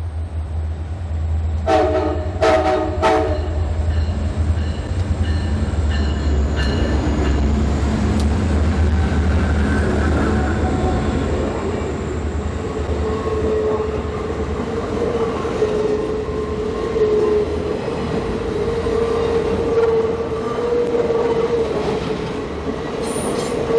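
CSX Santa Train passing with its diesel locomotives rumbling and three short horn blasts about two seconds in. The rumble then fades as the passenger cars roll by, with a steady wheel squeal through the second half.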